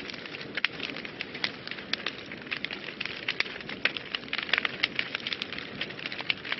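Wood fire burning in a fireplace, crackling and popping with many sharp irregular snaps over a steady low hiss of flames.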